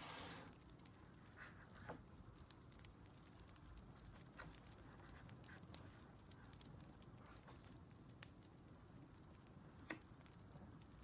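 Faint crackling of a wood fire: scattered small pops and snaps over a low steady hiss, with a short rustle right at the start.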